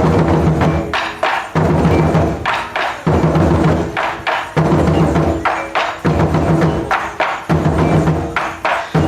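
Japanese taiko drums played by an ensemble in a steady repeating pattern: a group of deep, ringing strikes about every second and a half, with short sharp clacks between the groups.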